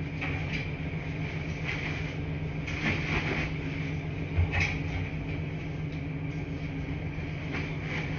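Washing machines running with a steady low hum, broken by scattered light clicks and rattles and a couple of low thumps about four and a half seconds in.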